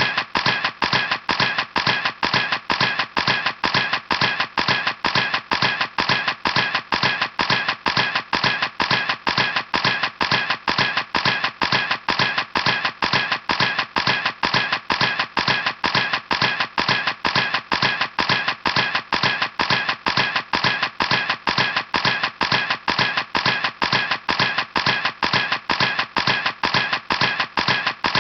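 Camera shutter clicking over and over at a steady pace, about three clicks a second, each click sharp and identical.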